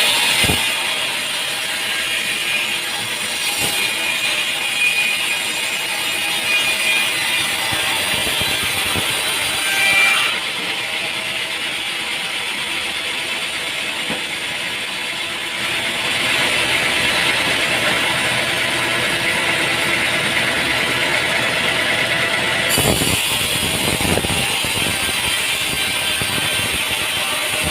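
Sawmill machinery running with a steady mechanical clatter, the sound changing abruptly a few times.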